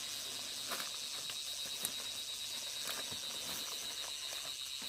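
Insect chorus: a steady high, shrill buzz with a fast, even pulsing, and a few light clicks.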